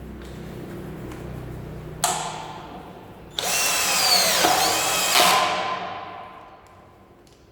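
Cordless drill being run under trigger control: a short burst about two seconds in, then a longer run whose pitch dips and rises as the speed is varied, winding down near the end.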